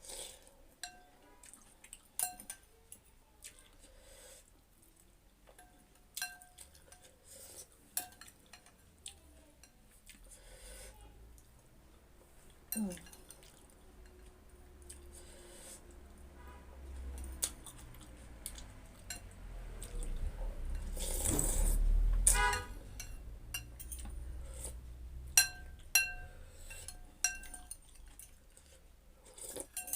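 A spoon clinking against a bowl of thukpa, in scattered ringing taps. About two-thirds of the way through comes a longer, louder stretch of slurping the soup from the bowl.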